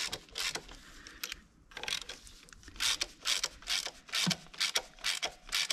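Ratchet wrench clicking in short groups of strokes, gently tightening the camshaft bearing cap bolts to draw the new camshaft down evenly into its bearings.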